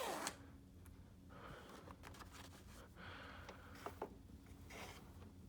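Quiet room tone with faint rustling handling noise and two light clicks about four seconds in.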